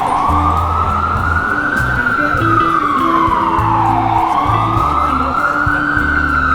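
Emergency vehicle siren wailing, its pitch rising and falling slowly, one full sweep about every four seconds, with music playing underneath.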